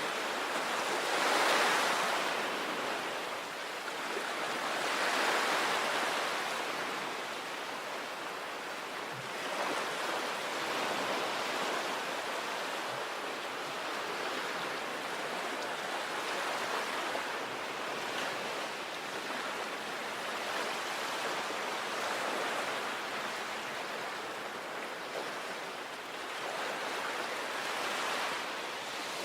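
Sea waves breaking and washing on a beach: a continuous surf wash, with two stronger breakers in the first few seconds and softer, steadier rolling after that. A little wind on the microphone.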